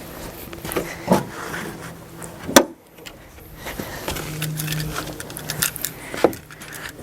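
Tangled red and black clip leads being handled and pulled apart: irregular jangling and clicking, with one sharp clack about two and a half seconds in.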